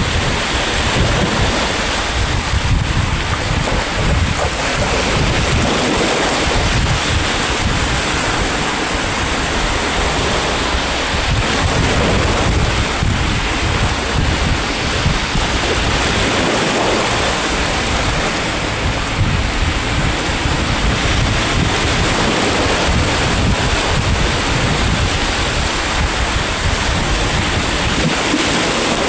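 Sea waves breaking and washing on the shore in a continuous surf, with wind buffeting the microphone as a low rumble.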